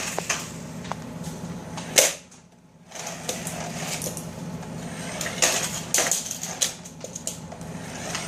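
Clicking and clattering of plastic toy cars being pushed and bumped against each other on a hard floor, over a steady low hum. A sharp knock about two seconds in is followed by a moment of near silence.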